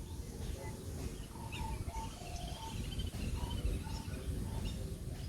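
Countryside birdsong: several birds calling, with short whistled notes repeated about every half second and higher chirps over them, against a steady low rumble.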